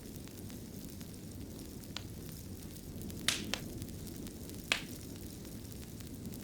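Wood fire burning in a fireplace: a steady low rumble of flame with sharp crackles and pops, four of them clear, the strongest near the end.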